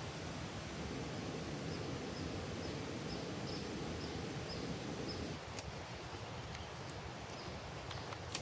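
Steady rushing water noise, with a faint high chirp repeating about twice a second. About five seconds in, the deeper part of the rushing drops away and a few sharp ticks follow.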